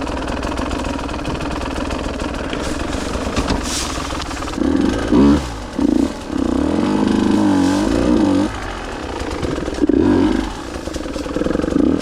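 Two-stroke enduro motorcycle engine running on a trail. From about four and a half seconds in it is revved in several short surges, then held up with the revs rising and falling for about two seconds, with more blips near the end.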